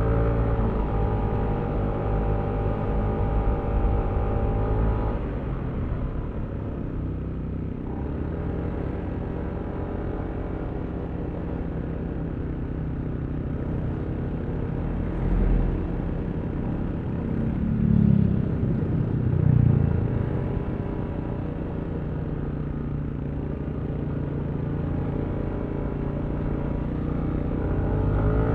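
Yamaha Aerox V3 scooter's 155cc single-cylinder engine running under throttle, then easing off for a long stretch and picking up again near the end. Two low thumps sound in the middle.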